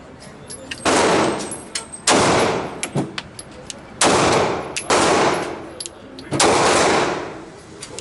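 Glock 26 9mm subcompact pistol being fired five times at an uneven pace, about one to two seconds apart. Each shot has a long echo tail.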